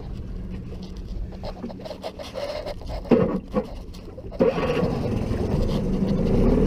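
Knocks and scrapes of gear being handled aboard a small sailboat, then from about four and a half seconds in a boat motor running louder and rising in pitch as it speeds up.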